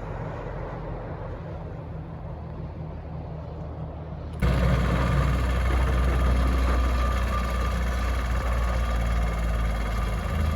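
A motor engine running steadily at a low rumble. About four seconds in, the sound cuts abruptly to a louder engine rumble with more hiss.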